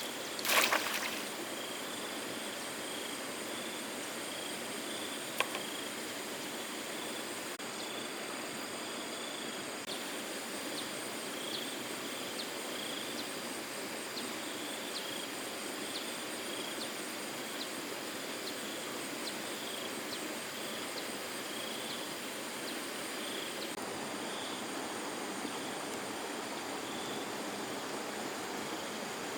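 Steady rushing noise of flowing water, with a sudden splash or knock about half a second in and a sharp tick around five seconds. Faint, evenly repeated high chirps sit above it.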